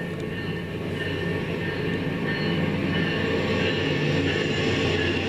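Amtrak passenger train rolling past close on the rails, a steady rumble that grows louder, with thin steady high squealing tones over it.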